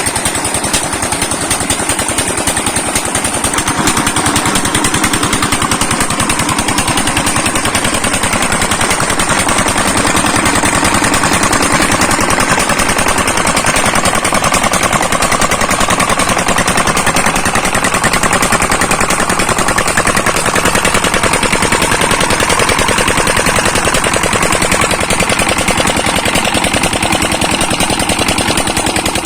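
Chinese 'Peter' 25 hp diesel engine running steadily after a cold start, its exhaust beating in a rapid, even knock.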